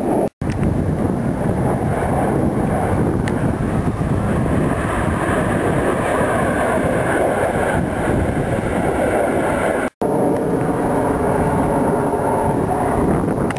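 Blue Angels F/A-18 Hornet jets roaring overhead: a loud, steady rumble with wind on the microphone. The sound cuts out abruptly twice, near the start and about ten seconds in.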